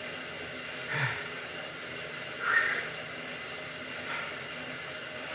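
A man breathing hard while pedalling an exercise bike at high resistance. Short, strained exhales come about a second in and again midway through, over a steady hiss.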